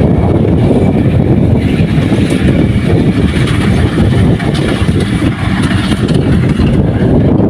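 Kubota rice combine harvester running steadily, a loud, even engine-and-machinery rumble.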